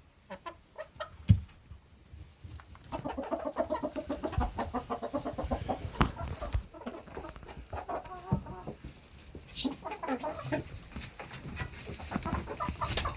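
Hens clucking in runs of quick, closely repeated clucks, with a sharp knock about a second in.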